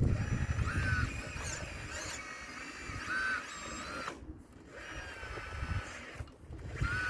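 Model RC excavator's small electric motors whining in short, repeated bursts that rise and fall in pitch, with a low rumble strongest in the first second.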